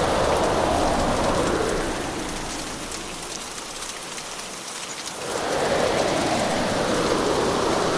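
Heavy hurricane rain with a steady roar that eases for a few seconds in the middle, letting single drops show through, then swells back to full strength.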